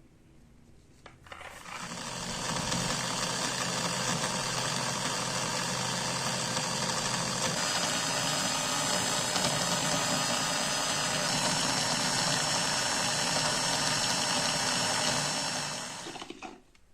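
A small electric power tool motor switched on with a click, running steadily at speed for about fifteen seconds, then winding down near the end.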